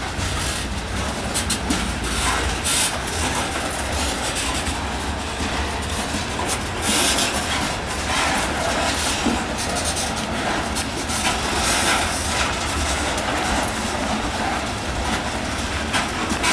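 Grain train's covered hopper cars rolling slowly past, steel wheels clacking over the rail joints above a steady low rumble, with a few brief hissing stretches of wheel-on-rail noise.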